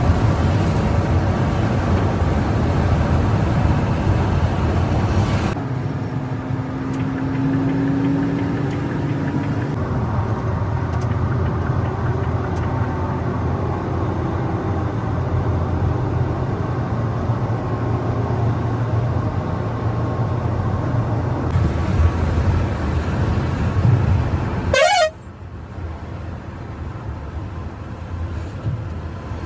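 Bus engine and road noise at speed, a continuous loud rumble that shifts abruptly at a few points. About 25 seconds in, the rumble drops away and a horn sounds briefly with a rapidly warbling pitch.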